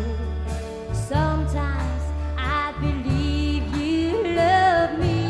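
Country band playing an instrumental intro: a sliding, wavering guitar melody over bass, drums and piano.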